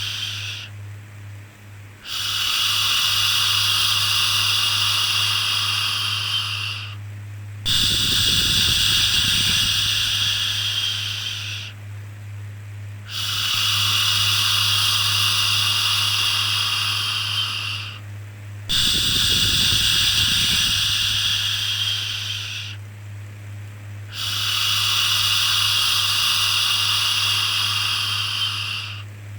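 Long, steady 'shhh' shushing sounds repeating about every five and a half seconds, each held for roughly five seconds with a brief pause between, the kind used to calm a baby. A constant low hum runs underneath.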